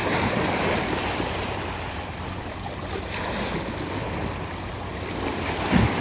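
Steady rush of sea waves and wind, with wind buffeting the microphone. A brief low thump comes near the end.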